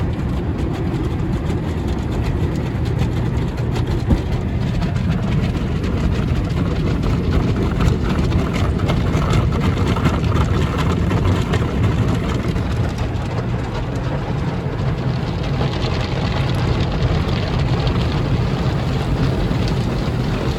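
Automatic tunnel car wash equipment working over the car, heard from inside the cabin: a steady low rumble with an even hiss that grows brighter about five seconds before the end.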